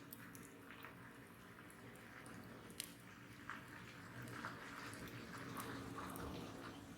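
Wood bonfire burning, with scattered sharp crackles and pops and a soft hiss that swells from about halfway through.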